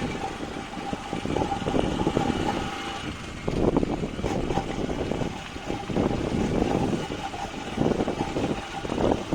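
A vehicle running, engine and road noise rising and falling unevenly, with a steady whine that stops about three seconds in.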